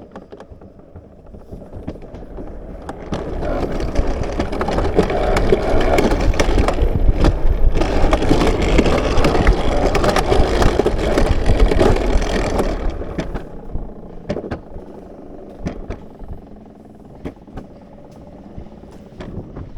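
Alpine coaster sled rolling along its steel rail track, with scattered clicks. The rolling noise builds up about two seconds in, stays loud for around eight seconds, then drops away as the sled slows.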